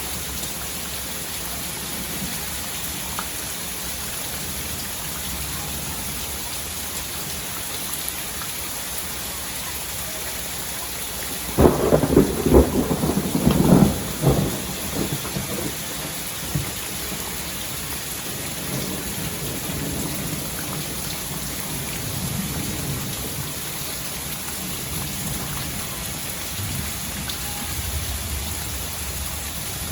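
Steady rain falling, with a loud crack of thunder about twelve seconds in that lasts around three seconds, followed by low rumbling.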